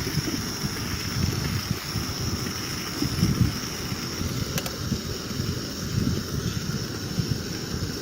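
Wind buffeting the microphone: a low, irregular rumble that comes and goes in gusts, over a faint steady high-pitched whine.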